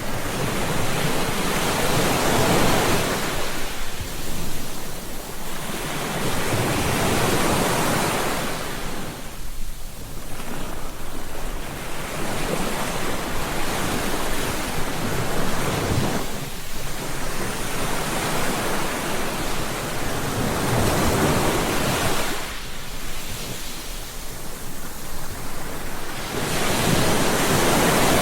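Ocean surf: waves breaking and washing up a beach, the rush swelling and fading about every five to six seconds.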